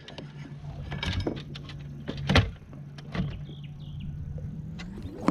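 A steady low motor hum with a few sharp knocks about one, two and three seconds in.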